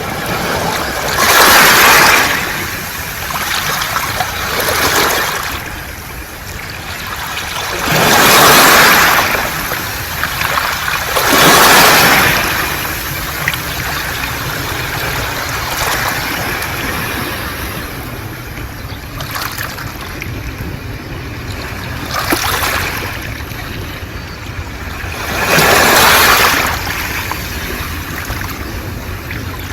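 Sea waves washing up a beach of smooth round pebbles, each surge breaking into a loud hiss and wash of stones, then drawing back. The surges come every few seconds, with a quieter lull of several seconds around the middle.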